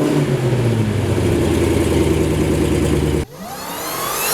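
Dodge Challenger SRT Demon 170's supercharged V8 holding a steady note, cut off abruptly about three seconds in, followed by an engine revving up with rising pitch and growing louder.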